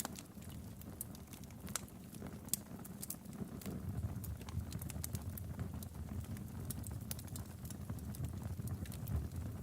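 Wood fire burning in a fireplace: irregular sharp crackles and pops over a low rumble of the flames.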